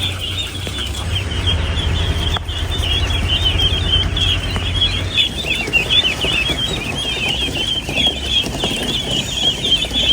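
A crowded flock of young ducks peeping together, a constant chorus of many short high chirps. A steady low hum runs underneath.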